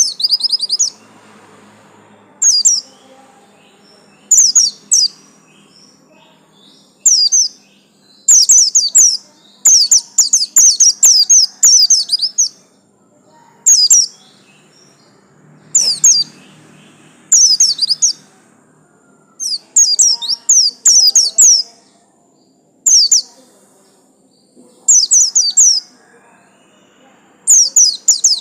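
Pleci buxtomi white-eye (Zosterops) singing in short bursts of quick, high chirps, one burst every second or two with brief pauses between.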